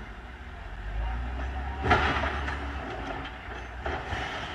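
Backhoe engine running with a steady low rumble. A loud bang about two seconds in and a few lighter knocks near the end, heavy machinery clanking or striking something.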